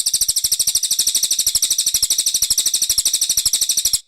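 Brown cililin bird singing one long, very high, rapid trill of evenly spaced notes, about ten a second, which cuts off suddenly near the end.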